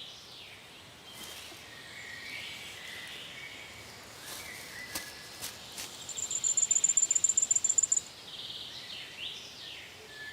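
Forest ambience with small birds chirping on and off. About six seconds in comes a rapid, high-pitched trill lasting about two seconds, the loudest sound here.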